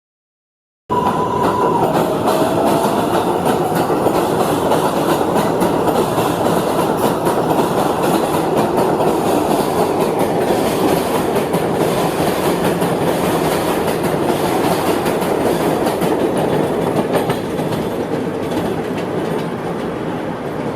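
New York train pulling away from a station, its wheels running on the rails with a loud, steady rumble that starts suddenly about a second in. A brief high whine near the start slides down in pitch, and the noise eases slightly near the end.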